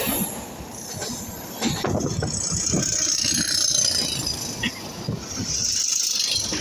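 Passenger train running, heard from on board: the coach rattles and rumbles unevenly as the wheels run over the track.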